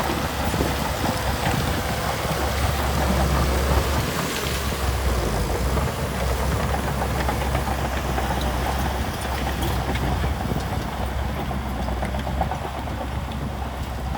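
Diesel engine of heavy earthmoving machinery running steadily with a deep low rumble.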